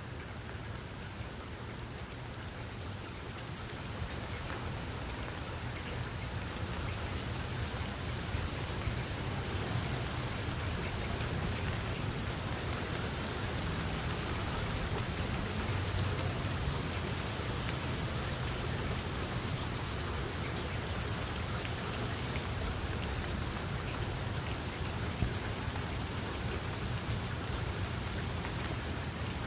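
Steady rain falling outdoors in a field, a continuous hiss of drops with a low rumble underneath, swelling a little over the first several seconds and then holding steady.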